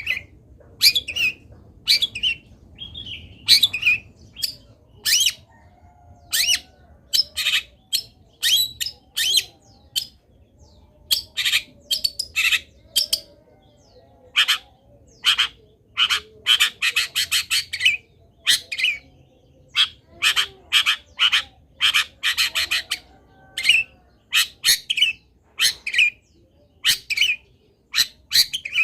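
Long-tailed shrike singing in a loud string of short, harsh notes, one or two a second, breaking twice in the middle into fast rattling chatters.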